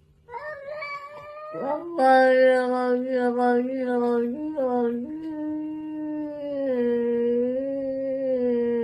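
A cat yowling: a short higher call, then one long, low, drawn-out yowl that wavers slightly in pitch and is held for about seven seconds.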